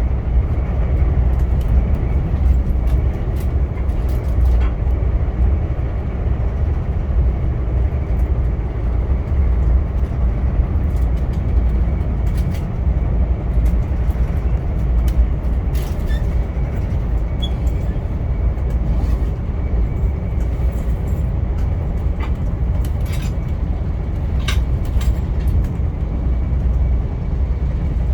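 Via Rail passenger train running along the track: a steady low rumble with scattered light clicks and ticks.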